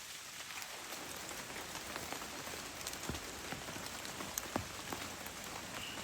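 Rain falling steadily, with scattered single drops striking close by as sharp taps.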